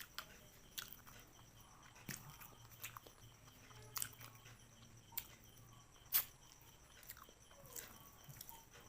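Close-miked eating sounds: chewing and biting, with sharp crunches or cracks coming irregularly about once a second, the loudest about six seconds in.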